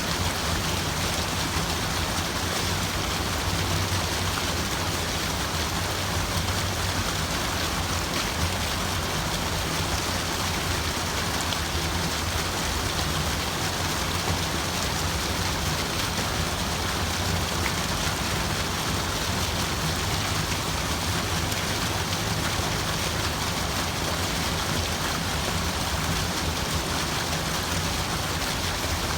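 Steady rushing water, an even unbroken wash of noise with a low rumble underneath.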